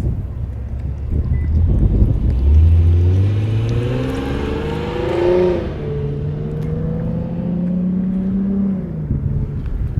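A motor vehicle's engine accelerating. Its pitch rises for a few seconds, drops suddenly about five and a half seconds in, then climbs slowly again and fades out shortly before the end.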